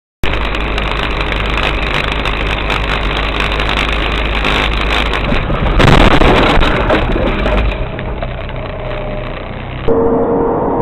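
Dash-camera recording of a car driving: steady engine and road noise with a constant low hum, and a louder rush of noise about six seconds in. Near the end it cuts abruptly to a different recording that carries a steady tone.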